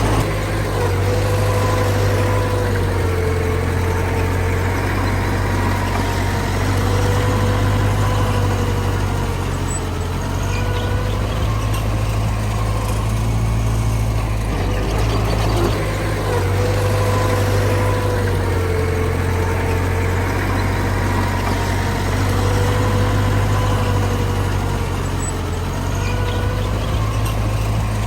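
Diesel engine of heavy earthmoving machinery running steadily, with a whining tone that wavers up and down in two similar stretches.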